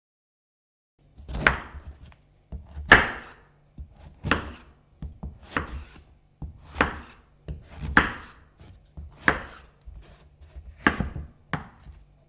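Kitchen knife chopping vegetables on a cutting board: about nine unhurried chops, roughly one every second and a half, over a faint low hum.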